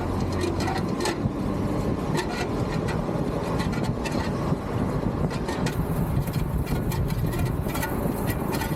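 Car engine running with irregular short clicks over its steady noise: a strange noise of unknown cause, put to mechanics for a diagnosis.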